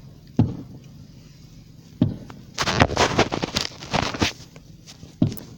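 Fireworks going off: three dull booms of shells bursting, and between about 2.5 and 4.5 seconds in a dense burst of sharp crackling, the loudest part.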